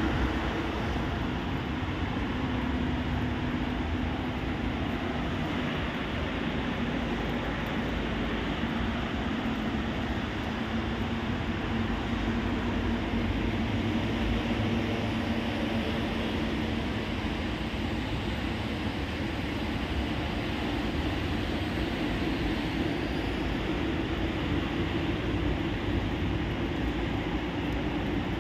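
Steady rushing noise of heavy rain over a city, with a faint low hum running underneath.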